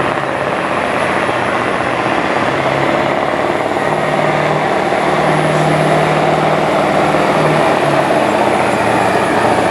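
Stock semi truck's diesel engine at full throttle pulling a weight-transfer sled: a loud, steady drone that holds throughout, with the engine note strengthening about four seconds in.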